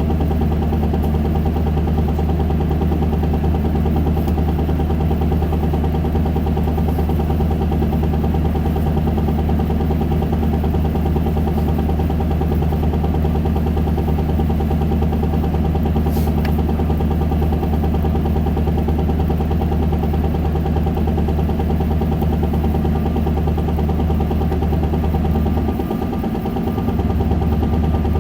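Isuzu Erga city bus's four-cylinder turbo diesel idling steadily while the bus stands, a deep even hum with a low engine drone; the low hum dips for about a second near the end.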